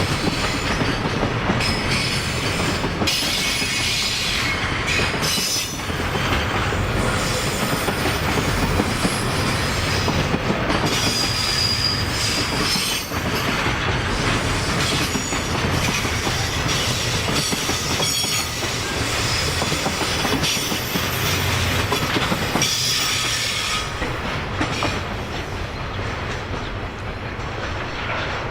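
Freight train of Koki container flat wagons rolling past: steady wheel-on-rail noise with rhythmic clickety-clack and brief high-pitched wheel squeals, easing off near the end as the train draws away.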